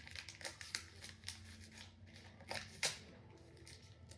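Faint crinkling and clicking of a small package being handled and opened by hand, with a few sharper crackles about two and a half seconds in.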